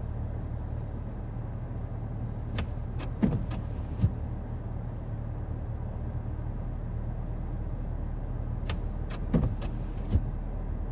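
A vehicle engine idling steadily with a low hum, with a few short clicks and knocks: a cluster about three seconds in and another near the end.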